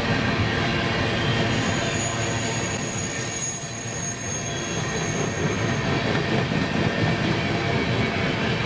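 Empty coal train's cars rolling past: steel wheels on rail give a steady rumble, with a thin, high wheel squeal in the middle few seconds.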